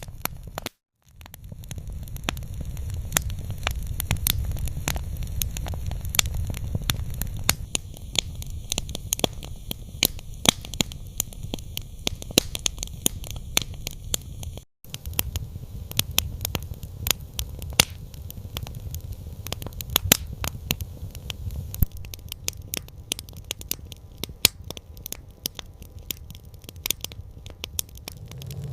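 Campfire crackling: frequent sharp pops and snaps over a steady low rumble. The sound cuts out completely for a moment twice, about a second in and about halfway through.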